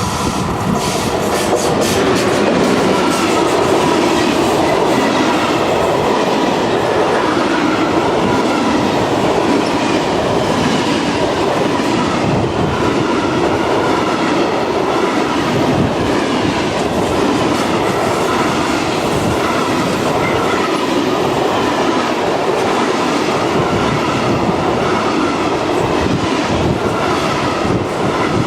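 A train passing close by, its wheels clattering over the rail joints, loud and steady throughout.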